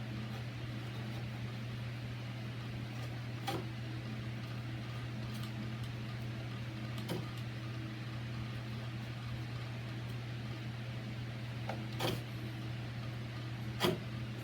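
Wood chisel cutting into the fiberboard edge of a door: a handful of short sharp cutting clicks several seconds apart, the material hard to cut cleanly, over a steady low hum.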